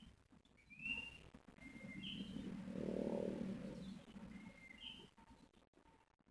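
A bird calling repeatedly, each call a short flat note followed by a quick higher note, about four times. A low rumble swells in the middle and fades again.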